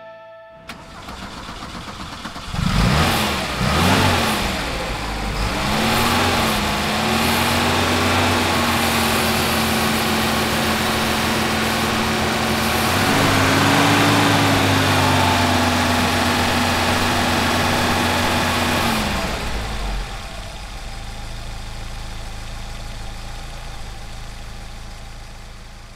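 1976 Chevrolet Chevette's 1.4-litre four-cylinder engine running: revved up and down twice, then held at raised revs for about fourteen seconds, then dropping back to a steady idle.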